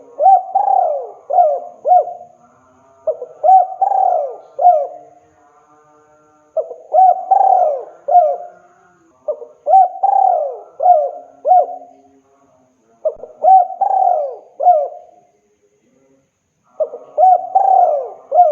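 A male spotted dove (tekukur) cooing loudly and persistently, calling to a female. It repeats a phrase of three or four coos about every three seconds, six times.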